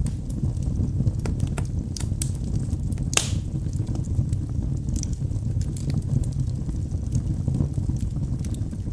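Wood logs burning in a fireplace: a steady low rumble of flame with scattered sharp crackles, and one loud pop about three seconds in.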